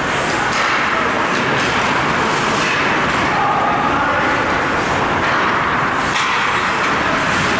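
Steady, loud background din of an ice hockey arena, with indistinct voices mixed in.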